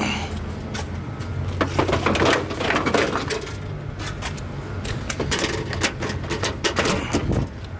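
Irregular clicks, knocks and scraping of hands working on the car, a plastic bumper cover being fitted and fastened, over a steady low hum.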